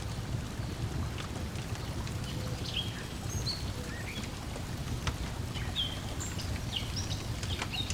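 Layered lakeside ambience: a low steady wash of lapping water under the sharp pops and crackles of a wood fire, with several short high bird chirps through the middle.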